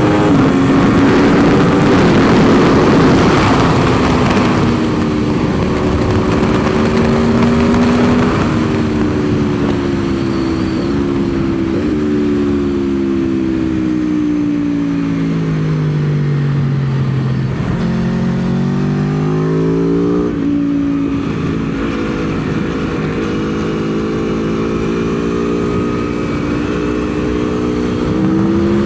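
Aprilia Tuono V4 motorcycle's V4 engine on track, with heavy wind rush over the first several seconds. The engine pitch falls in steps as it downshifts and slows for a corner, bottoming out about 17 seconds in, then rises as it accelerates out, stepping down at each upshift.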